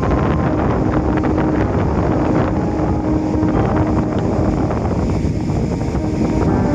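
Wind buffeting the microphone in a loud, steady low rumble, with faint background music underneath.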